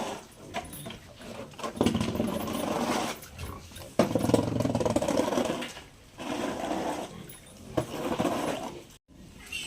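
Pigs grunting in rough, rapid bursts of a second or two each, several in a row with short pauses between.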